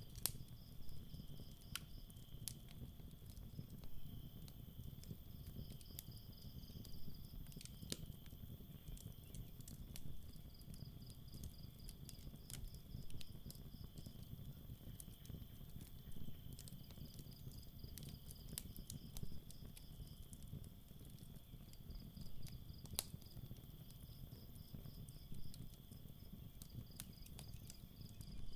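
Campfire crackling with irregular sharp pops over a low rumble, while crickets chirp in fast high pulsing runs of a few seconds each against a steady high insect trill.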